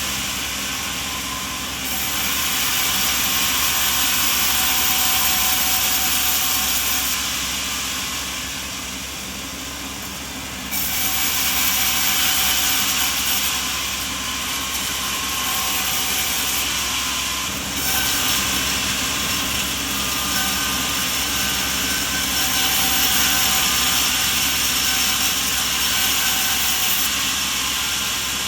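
Steady, hissing machinery noise that shifts abruptly about 2, 11 and 18 seconds in.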